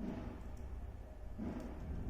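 Wood fire burning in a fireplace: a steady low rumble with a few faint crackles.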